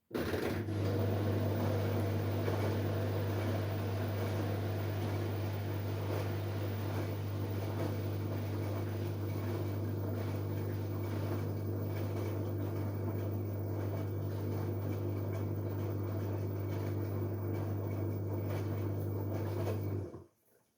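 LG Direct Drive 8.5 kg washing machine running during a wash cycle: a steady low hum that starts abruptly and cuts off suddenly after about twenty seconds.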